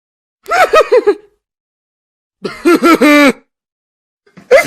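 Two short non-word voice clips of meme sound effects, each a quick run of rising-and-falling vocal sounds, separated by dead silence.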